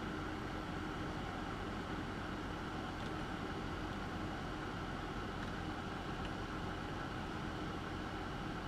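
Soldering fume extractor fan running steadily: a constant whir over a low hum.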